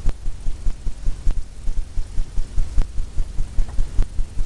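Paintbrush working quickly back and forth on a stretched canvas, blending wet oil paint: a rapid run of dull low thumps, about four or five a second, as the canvas drums under the strokes.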